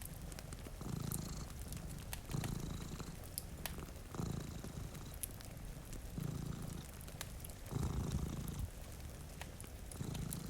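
Cat purring in slow swells that rise and fade about every second and a half, over the scattered crackle of a wood fire and a steady hiss of rain.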